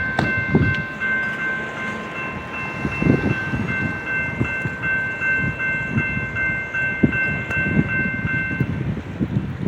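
Metra commuter train moving along the tracks, with low uneven rumbling and clattering from the wheels on the rails. Over it comes a high, evenly pulsing ringing tone, which stops near the end.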